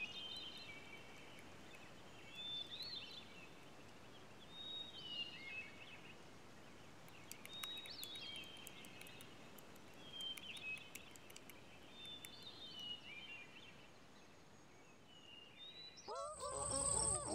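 Faint birdsong: short chirping phrases with quick up-and-down glides, one every two to three seconds. Near the end a louder sound takes over, a steady high whistle with wavering tones beneath it.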